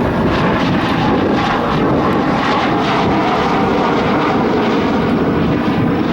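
MiG-17F's Klimov VK-1F turbojet running steadily at low power as the jet taxis after landing: a loud, even jet roar with no rise or fall.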